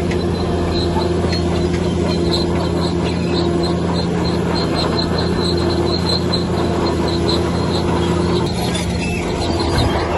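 Heavy diesel engine of earthmoving machinery running steadily under load, with a faint high squeak repeating over it.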